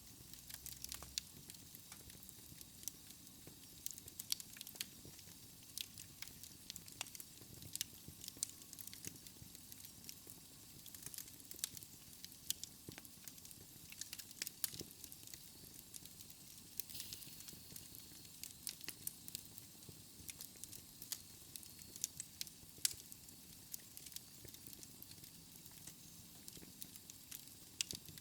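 Wood fire in a fireplace crackling: irregular sharp pops and snaps over a soft steady hiss.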